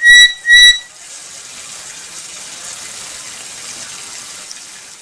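Black-capped lory whistling, two loud clear notes of steady pitch ending a run of repeated notes about three a second; then a quieter steady hiss takes over for the rest of the time.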